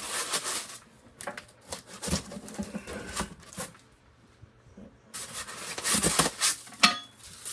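Packaging being rustled and small items handled, in two spells of rustling with scattered clicks, and a short ringing metallic clink about seven seconds in.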